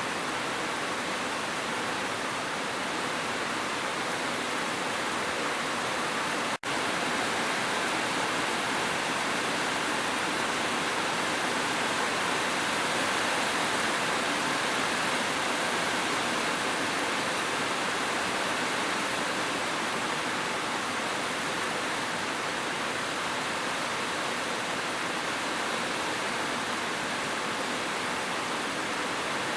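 Steady, even rush of dense falling water, a continuous hiss with no separate drops standing out, broken by a split-second dropout about six and a half seconds in.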